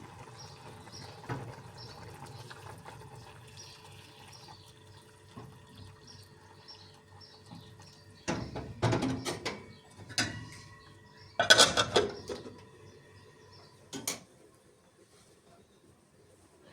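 Dishes, pots and cutlery clattering in loud clusters about eight and eleven seconds in, with a single knock near fourteen seconds. Water runs or is poured underneath, with faint high chirps repeating over the first half.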